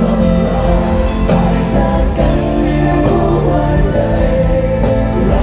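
Live rock band playing a song with vocals: guitars, bass and drums with a singing voice, steady and loud throughout.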